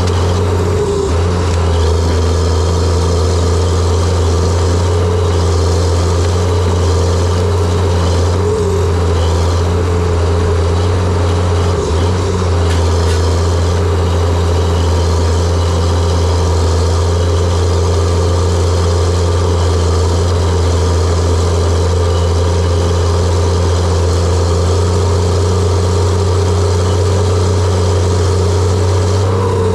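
John Deere 700J-II crawler dozer's diesel engine running steadily with a strong low drone.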